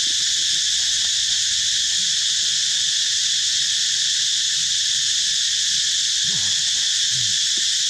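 Steady, high-pitched insect chorus, like crickets or cicadas, droning without a break.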